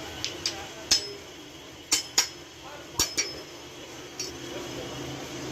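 Sharp metallic taps and clinks of metal striking metal, about eight of them, several in quick pairs, each with a brief ring; the loudest comes about a second in.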